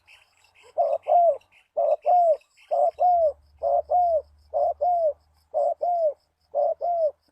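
Spotted dove cooing: seven paired coos, a short note then a longer one that falls at its end, repeated about once a second.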